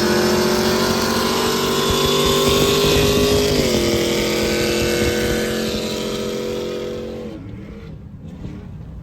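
A car engine running at high revs, held steady with a slight climb, then stepping down in pitch about three and a half seconds in, like a gear change. It fades and drops away about seven seconds in.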